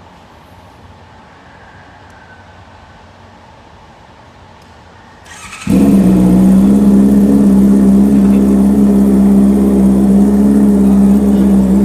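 Honda CB650R inline-four with a full aftermarket exhaust and bomb muffler, started about five seconds in after a brief crank, then idling loud and steady on a cold start.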